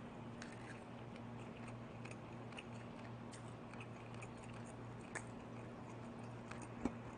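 Faint chewing and small mouth clicks as a man eats a mouthful of baked fish, over a low hum.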